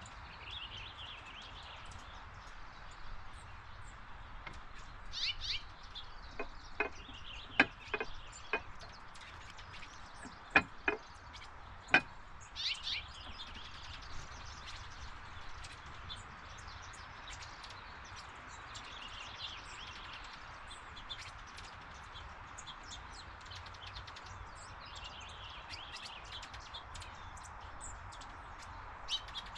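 Small birds chirping on and off in a backyard over a steady background hiss, with a run of about seven sharp knocks or taps in the middle.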